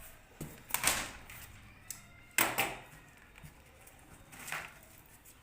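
Packaging of a new wet grinder being cut and pulled open: a few short rustling, scraping noises about a second in, around two and a half seconds in and again near four and a half seconds, with small clicks between.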